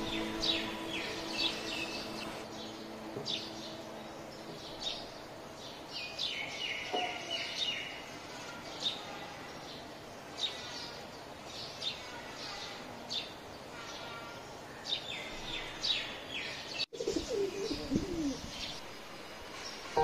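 Small birds chirping, many short high chirps repeating irregularly, with a few lower gliding calls near the end.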